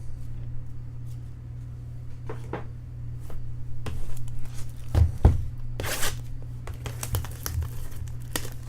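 Baseball trading cards being handled and flipped, with foil pack wrappers crinkling and tearing; the handling grows busier in the second half. There is a low thump about five seconds in, over a steady low hum.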